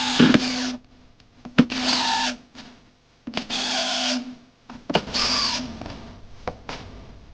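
A power tool run in four short bursts of under a second each, with short pauses and small knocks in between.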